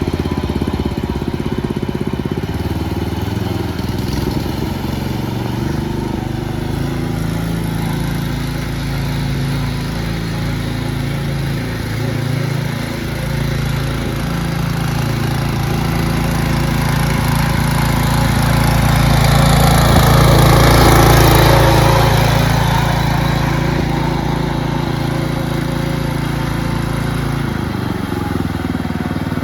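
Small lawn tractor engine running steadily. It grows louder for a few seconds past the middle, then eases back.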